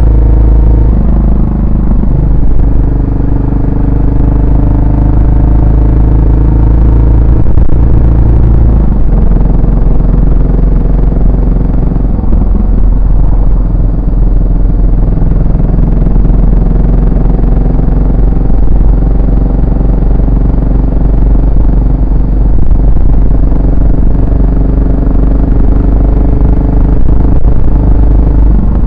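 Yamaha SR400's single-cylinder four-stroke engine and exhaust while riding. The engine note steps up in pitch about a second in, drops near nine seconds, then rises and falls gently with the throttle.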